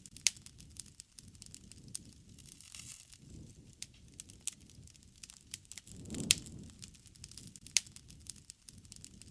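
Campfire crackling, with irregular sharp pops and snaps of burning wood over a low, rushing rumble of flames that swells up about six seconds in.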